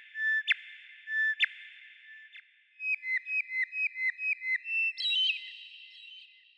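A songbird's clear whistled song: two long steady whistles, each ending in a sharp flick, then a quick run of about nine short repeated notes, and higher notes near the end.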